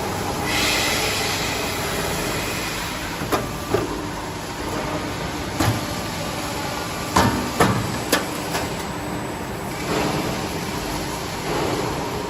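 Fire damper frame production line running, a steady machine din with a short hiss about half a second in. About six sharp clanks follow between roughly three and eight seconds in.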